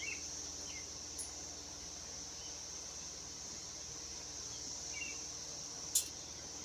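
A steady high insect drone, like crickets, with a few short bird chirps near the start and again later. A single sharp click about six seconds in, likely a tool or part knocking.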